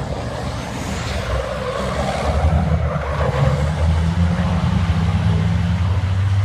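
Racing vehicle engine running with a low, steady note, growing louder from about two seconds in as it comes closer.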